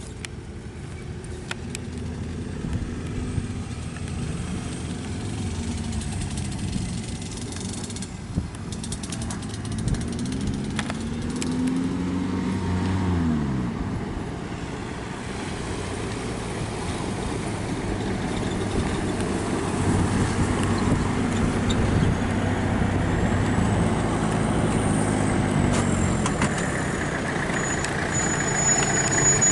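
Jeep and motorbike engines driving past, their pitch rising and falling as they rev, about ten to thirteen seconds in and again later. The sound grows gradually louder toward the end.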